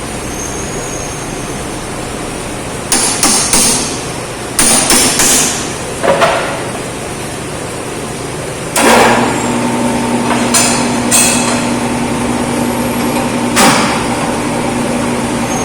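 Hammer blows on metal in quick clusters, one ringing briefly. About nine seconds in, a power tool's motor starts and runs steadily with a few more knocks over it.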